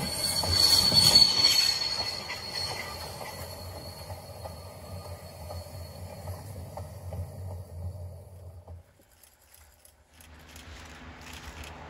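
Goods wagons rolling past on jointed track: a steady high-pitched wheel squeal with regular clicks of wheels over rail joints, loudest near the start and fading as the brake van goes by. The sound drops away about nine seconds in, and a fainter sound returns just before the end.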